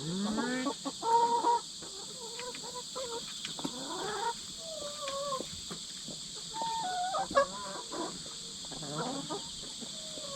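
Domestic hens calling and clucking in a string of short, varied calls, some rising and some falling in pitch. Behind them is a steady high chirring of insects.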